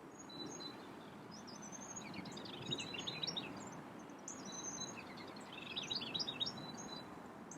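Songbirds chirping and singing, with two flurries of quick notes about three and six seconds in, over a low steady background noise.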